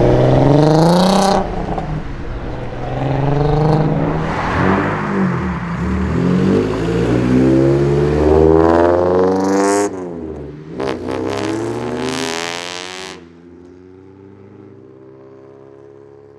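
A Volkswagen Golf's engine revving up briefly twice, then accelerating hard with its pitch climbing for several seconds. The pitch drops as the car goes past, about ten seconds in, and after that only a quieter steady engine note is left.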